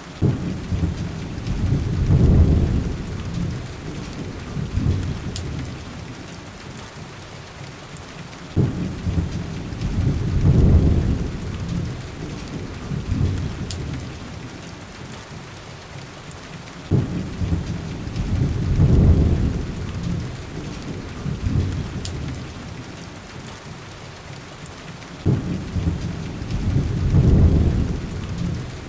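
Steady heavy rain with rolling thunder: four deep rumbles about eight seconds apart, each starting with a sudden crack and swelling for a couple of seconds before fading back under the rain.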